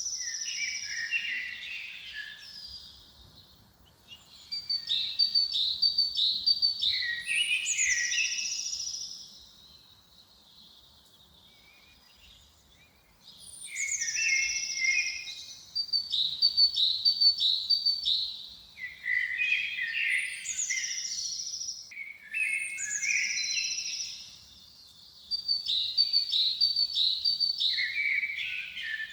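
A songbird singing the same phrase over and over with short pauses between. Each phrase opens with a high down-sliding note, runs into a quick series of repeated notes, and ends on lower notes; there is a longer pause partway through.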